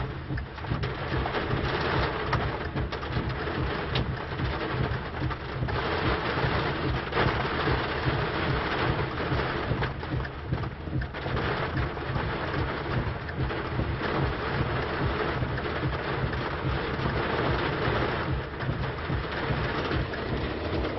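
Heavy rain pounding on a car's roof and windshield, heard from inside the car, surging and easing by turns. A steady low hum runs underneath.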